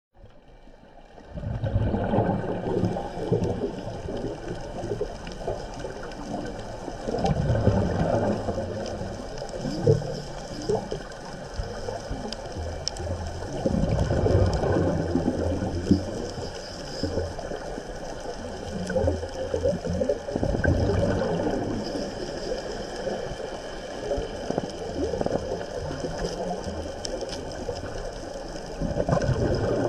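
Underwater water noise: irregular low surging and bubbling.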